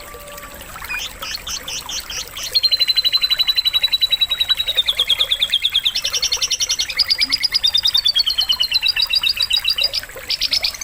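Canary singing: a few quick chirps, then from about two and a half seconds in, long rapid trills of repeated notes that shift from one pitch to another, in the lovebird-like rolls of a canary trained with lovebird fill-ins. Faint running water sounds underneath.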